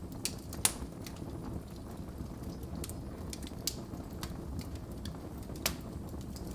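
Wood fire burning in a fireplace: a steady low rumble of the flames with irregular crackles and snaps, the sharpest pop about half a second in and another near the end.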